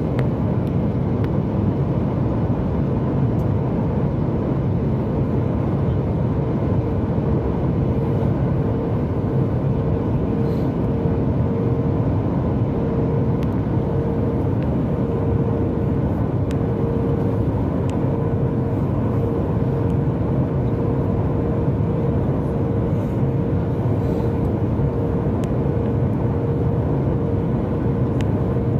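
Steady cabin noise of a Boeing 737 MAX 8 in flight: an even rush with a faint steady hum running through it.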